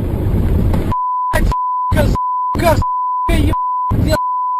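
Engine and road noise in a car, cut off about a second in by a steady 1 kHz censor bleep that runs through the rest, broken several times by short snatches of voice.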